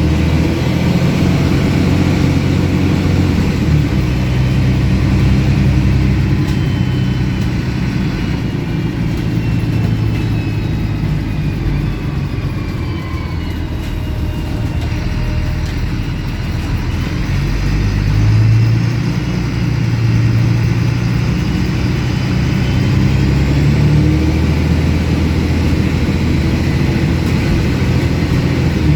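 MAN 18.220 single-deck bus's diesel engine running under way with an unusually loud exhaust, its pitch rising and falling as the bus accelerates and changes gear. A faint whine rises and falls with it.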